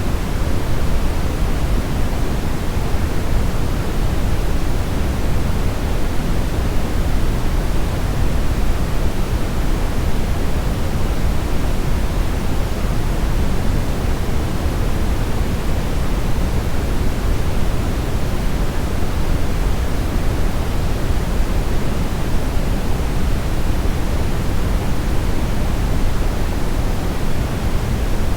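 Steady synthetic brown noise: an even, deep rushing hiss, loudest in the bass and thinning toward the treble, unchanging throughout.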